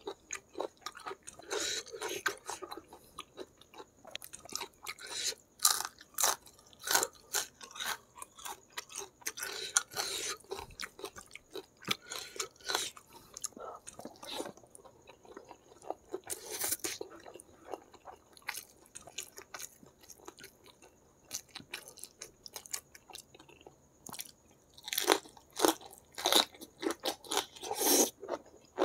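Close-miked chewing of a meal of spicy chicken feet with rice and vegetables: wet mouth sounds and irregular sharp crunches. A run of louder crunches comes near the end.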